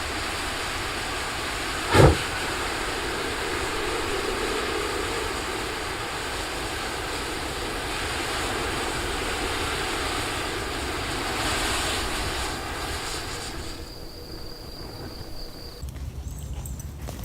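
A giant ball of matches burning: a steady rushing hiss of flames, with a sudden loud burst about two seconds in. The sound drops away a few seconds before the end.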